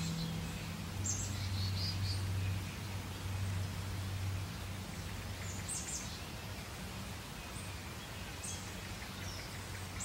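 Wild birds chirping: short, high calls every second or two over a steady low background noise.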